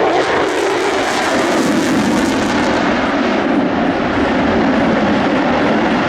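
Fixed-wing airplane in flight, its engine giving a loud, steady drone.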